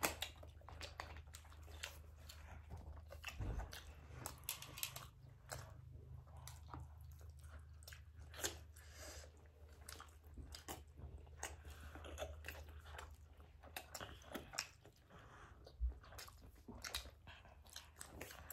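Faint chewing and eating sounds of two people eating momos by hand: soft mouth noises and many small scattered clicks, over a steady low hum.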